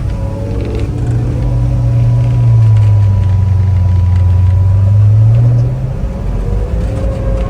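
LS V8 engine of a snowcat running under load, its pitch climbing about a second in, holding high and loud, then dropping back around six seconds in.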